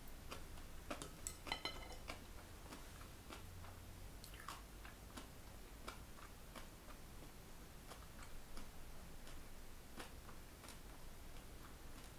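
Faint, close-up chewing with small wet mouth clicks. About a second and a half in comes a short ringing clink as wooden chopsticks are set down on the ceramic bowl.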